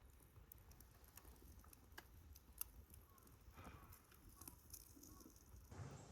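Campfire burning faintly, wood crackling with scattered sharp pops.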